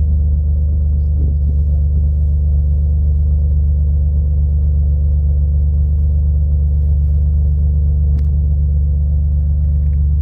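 Exhaust of a Hyundai Coupe's 2.7-litre V6 idling steadily with a deep, even rumble, shortly after a cold start. A brief click sounds about eight seconds in.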